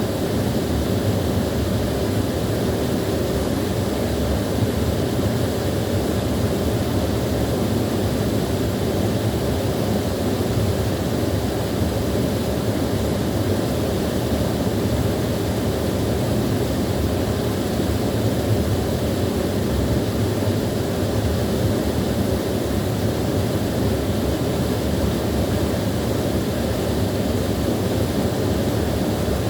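Small waterfall splashing and rushing steadily, a dense even sound weighted toward the low end.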